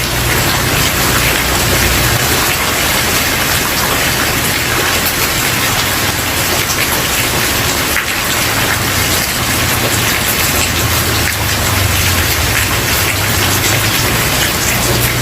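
Steady rain falling on a wooden porch, a dense even hiss of many drops with a faint low rumble underneath that comes and goes.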